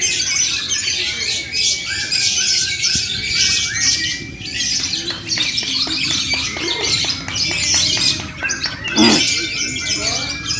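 Many lovebirds chattering and calling together, a dense mass of high-pitched rapid chirps, squawks and trills.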